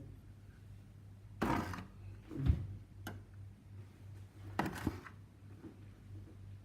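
Handling noises of a small diecast model plane and its packaging: two short rustles and a sharp knock, with a small click, over a low steady hum.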